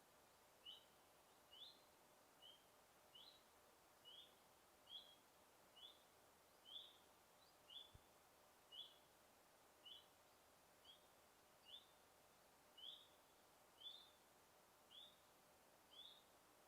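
Faint bird call: a short rising chirp repeated about once a second, over a low steady hiss of forest ambience.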